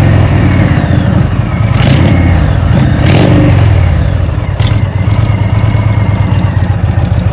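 Indian Springfield's air-cooled Thunder Stroke 111 V-twin running warm through Shark Road aftermarket exhausts, idling loudly with a couple of short throttle blips about two and three seconds in.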